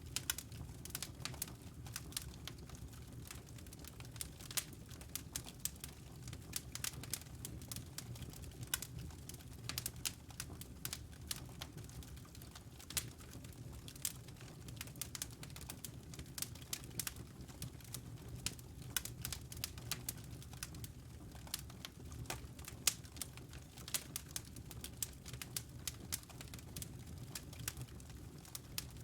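Wood fire crackling in a fireplace: frequent sharp pops and snaps over a low steady rumble of flame.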